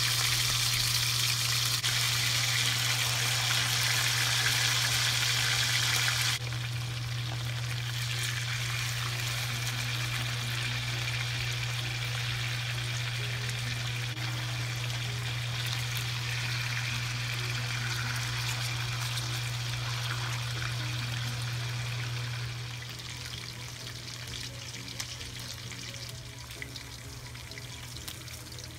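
Marinated pork frying in hot oil in a stainless steel pan, a steady sizzling hiss. The sizzle drops suddenly about six seconds in and eases again near the end. Quiet background music plays under it.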